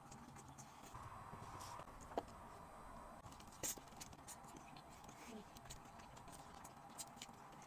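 Faint eating sounds: quiet chewing with a few scattered small clicks and taps, otherwise close to silence.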